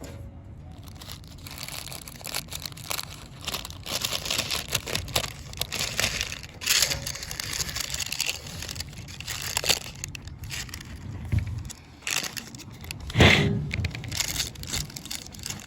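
Sub sandwich's wrapper being opened: irregular crinkling, crackling and tearing rustles, with one louder crunch near the end.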